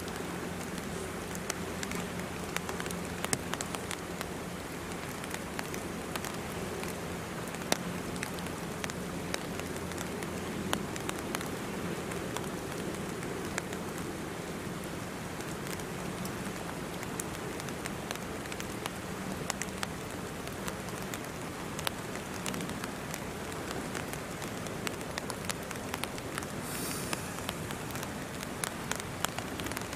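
Steady rain falling, with many small irregular drop ticks close by, over a faint low steady hum.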